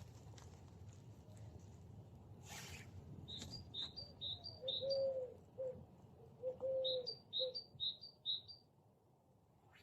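Birds calling: two runs of short, high chirps, about three a second, with low cooing calls in between them.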